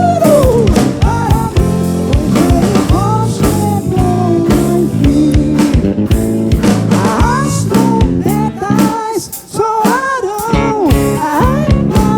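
A soul band playing live: drums keeping a steady beat under bass and keyboards, with a bending, wavering lead melody on top. The band drops out briefly about nine seconds in.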